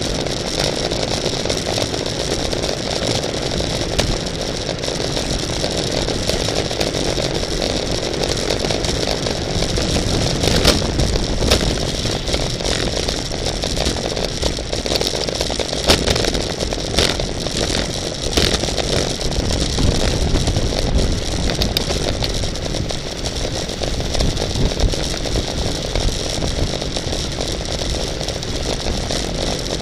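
Steady rushing wind and rolling noise from a bicycle being ridden fast in a road race. A few sharp clicks come about a third to halfway through.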